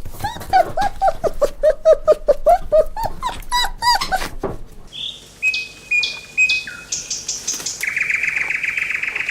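Bird calls: a quick run of short, repeated chirps for the first few seconds, then, after a brief break, higher clipped notes and a sustained trill.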